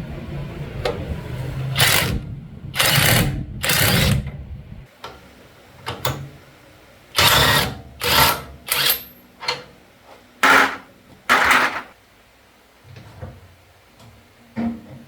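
Workshop tool noise during restoration of a rusty tire changer. A small motor runs with harsh bursts for about five seconds, then stops. About six short, harsh strokes follow, each under a second long, with pauses between.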